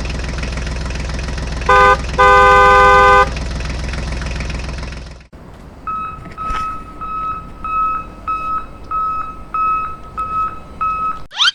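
Vehicle engine running with a steady low rumble, sounding its horn twice, a short blast then a longer one. After a cut comes a steady electronic beeping, about twice a second, with a quick rising swoosh at the very end.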